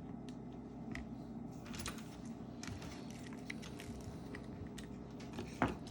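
Scattered light taps and clicks of a phone and small repair parts being handled on a work surface, with one louder knock near the end, over a steady low hum.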